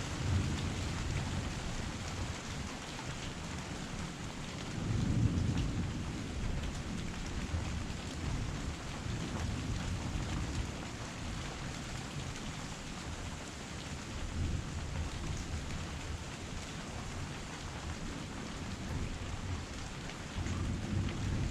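Heavy rain falling steadily, with a low rumble that swells up about five seconds in and again near the end.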